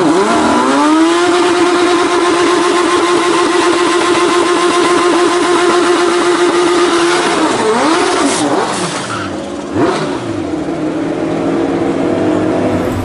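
Turbocharged Suzuki Hayabusa inline-four in a three-wheeled Reliant Bond Bug, revving up and holding a high steady note for several seconds under way. Its note drops and wavers about seven seconds in, a sharp crack comes near ten seconds, and then it settles into a steady run again.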